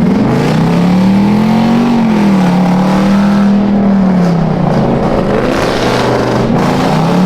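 V8 car engine revving, its pitch climbing, dropping back and climbing again near the end.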